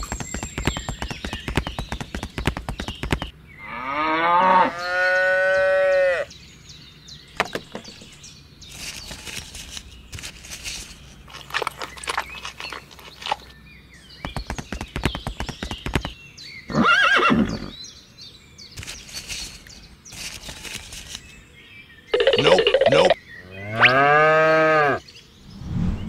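Cattle mooing: a long call about four seconds in that rises and then holds, and another near the end. Between them come sharp clicks and rustles.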